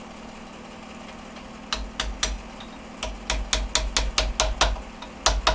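Light metal-on-metal hammer taps seating split half-rings onto a gearbox output shaft: three taps, then a quicker run of about eight, then a few more near the end, each with a short metallic ring.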